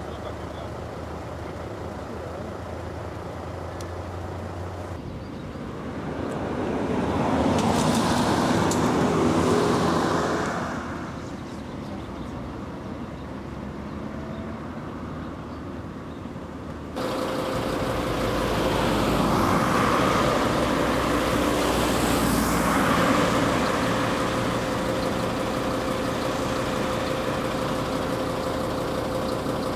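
Road traffic: vehicles passing by, swelling and fading twice. In the later part a steady engine hum runs underneath.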